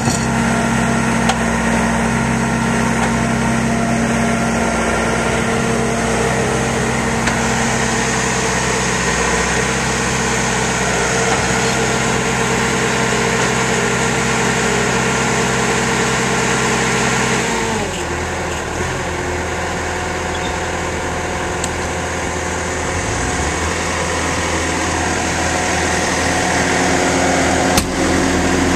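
Bobcat T750 tracked skid steer's diesel engine running steadily at raised speed, then dropping to a lower speed about two-thirds of the way through and running on there.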